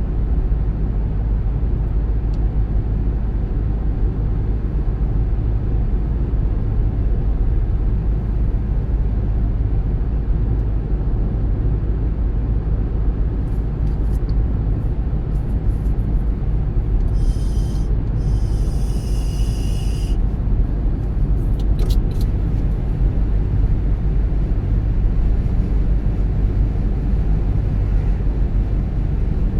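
Car driving along a road: a steady low rumble of road and engine noise. A short hiss and a few faint clicks come a little past the middle.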